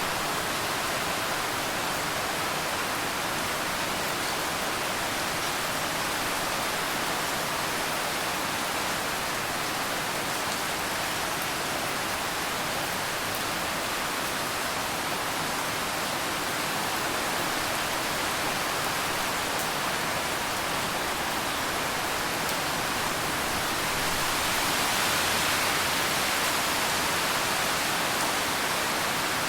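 Steady rain falling, an even hiss of many drops with no distinct patter, swelling slightly about 25 seconds in.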